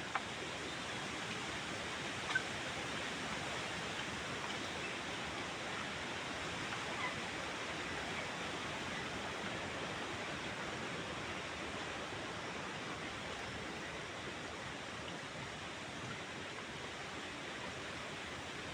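Steady rushing of forest stream water, an even hiss with no change, with two faint clicks in the first few seconds.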